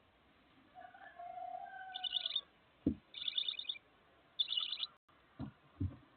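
Bird calls: a drawn-out call that falls slightly, then three short bursts of rapid high chirping. A few dull thumps come in between, heard through a nest-box camera's narrow-band microphone.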